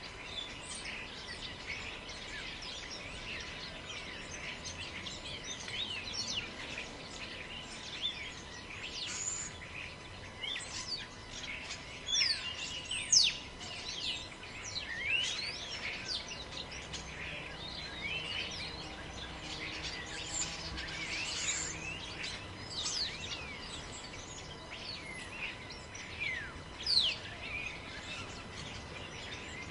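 Many small birds chirping with quick rising and falling calls over a steady hiss of wind in a forest, with a few louder chirps about halfway through and near the end.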